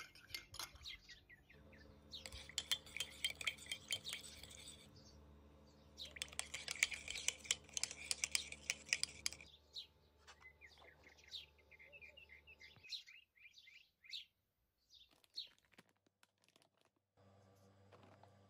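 Small birds chirping and twittering, busiest in two spells of a few seconds each, then thinning to scattered chirps. A low steady hum runs underneath and drops out for a few seconds near the end.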